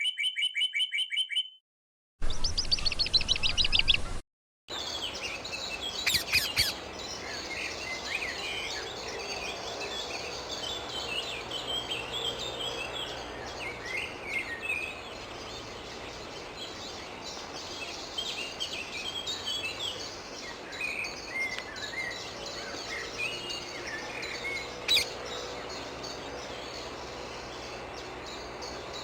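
Wild rose-ringed (Indian ringneck) parakeets calling: a dense run of short chirps and squawky calls over steady outdoor background noise. It opens with two brief separate snippets of bird calls cut off by short silences, and a couple of louder sharp calls stand out about six seconds in and near the end.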